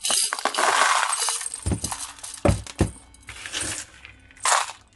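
Small craft beads tipped out of a container, a dense rattling and clinking for about a second and a half, followed by a few separate clicks and short rattles as they are sorted.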